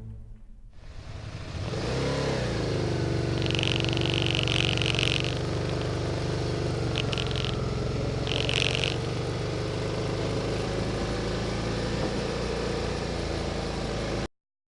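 Vehicle engine running under way with road and wind noise, its pitch rising about two seconds in and then holding steady. There are three short high-pitched squeals in the middle stretch, and the sound cuts off suddenly near the end.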